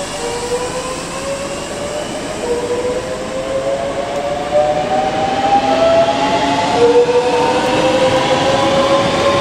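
Electric multiple unit pulling away, its traction motors giving a whine that rises in pitch in repeated steps as the train gathers speed, over a steady rolling rumble that grows louder about halfway through.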